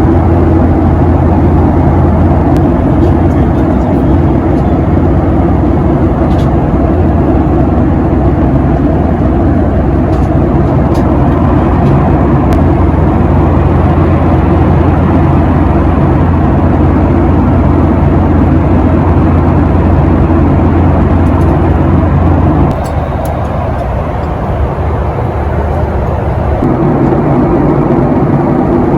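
Steady low drone of a moving vehicle, loud and even. It dips in level for a few seconds about three quarters of the way through, then comes back.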